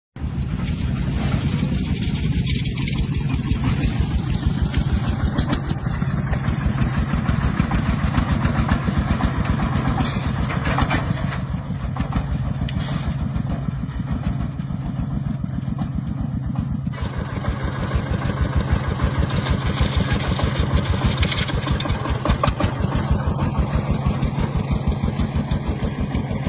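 An engine running steadily with a fast, even beat of firing pulses.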